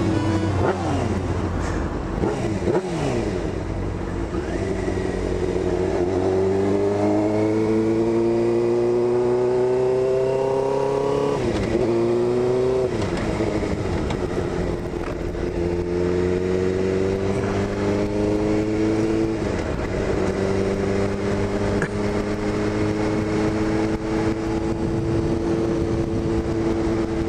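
2001 Suzuki GSX-R600's inline-four engine pulling under acceleration, its pitch climbing steadily. The pitch drops sharply at upshifts about eleven and nineteen seconds in, then climbs again, under a rush of wind noise.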